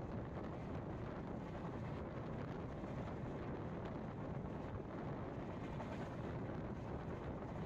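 Steady rumble of a moving passenger train, mixed with wind buffeting the microphone.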